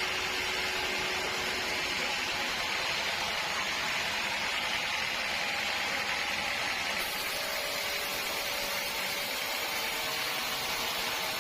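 Sawmill machinery running steadily: an even mechanical noise with a faint hum and no pauses.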